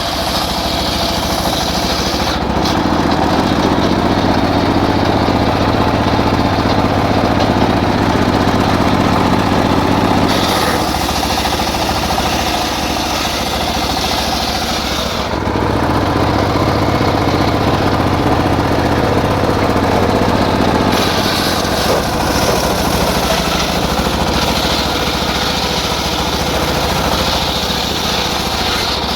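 Engine-driven circular saw running while cutting teak. The engine and blade note shifts every few seconds as the load changes.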